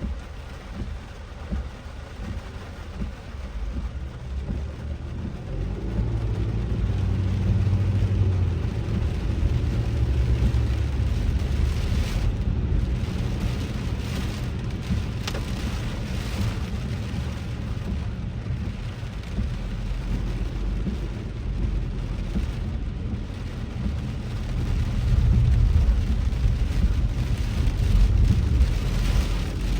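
Car driving in heavy rain, heard from inside: a steady low rumble of engine and road noise under the hiss of rain on the car. It grows louder about six seconds in and again near the end.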